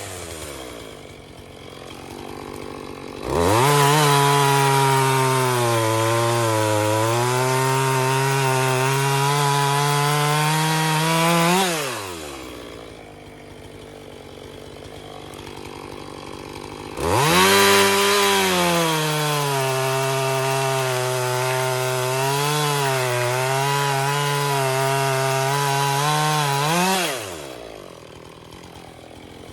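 Two-stroke chainsaw idling, then revved to full throttle twice for about nine seconds each while cutting wood. Its pitch sags and recovers as the chain bites, and it drops back to idle between the cuts.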